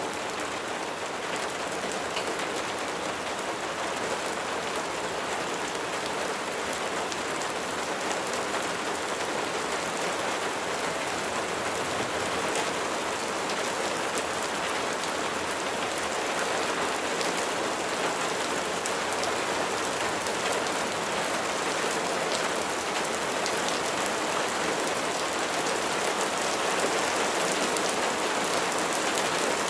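Steady rain falling, a continuous hiss flecked with the ticks of individual drops hitting a surface.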